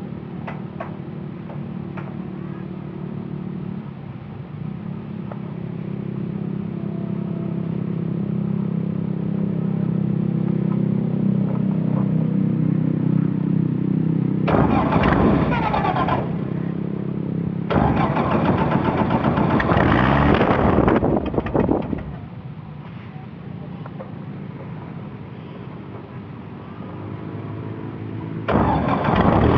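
Xenos motorglider's Aerovee 2180 air-cooled flat-four engine and propeller running on the ground: a steady idle that slowly builds, then opened up to high power twice around the middle, dropping back to idle, and opened up again near the end.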